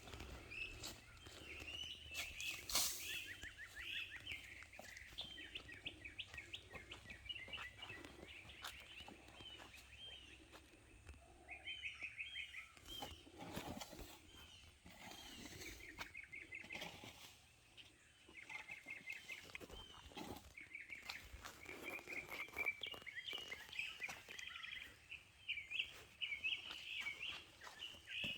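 Small birds chirping and trilling in quick repeated phrases, faint, with a few soft knocks in between.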